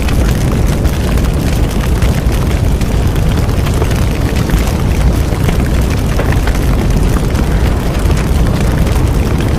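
Large bonfire burning steadily: a dense low rumble of flames with a constant fine crackling and popping of burning wood.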